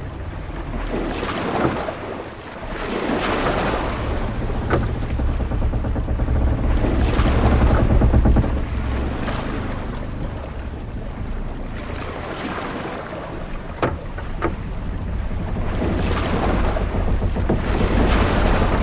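Sailing-ship-at-sea ambience: waves washing in surges every few seconds over a deep steady rumble of wind and water, with a few short knocks.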